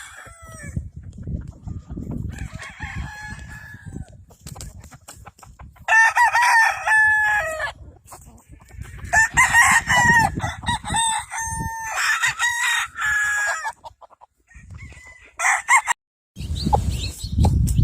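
Gamefowl roosters crowing one after another: a few fainter crows at first, then several loud ones in the middle, over a low rumbling noise.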